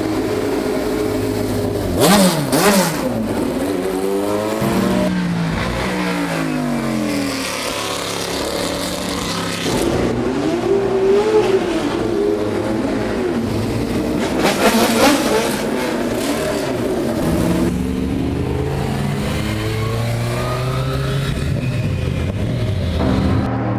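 Historic race cars passing at speed one after another, their engine notes rising as they come and dropping in pitch as they go by. The loudest passes come about two seconds in and around fifteen seconds in.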